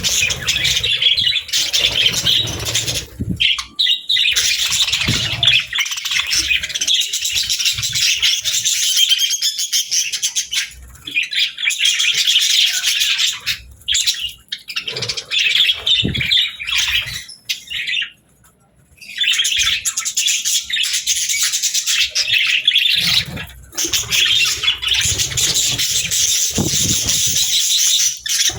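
Budgerigars chattering and chirping continuously, a busy warbling flock sound, with a brief pause about two-thirds of the way through and occasional low thumps.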